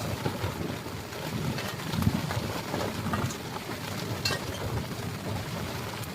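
Strong gusty wind buffeting the microphone in uneven low rumbling surges, with a short sharp click about four seconds in.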